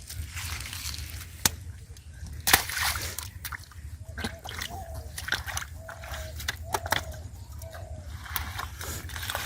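Water sloshing and splashing as hands work through shallow river water, with two sharper splashes about one and a half and two and a half seconds in.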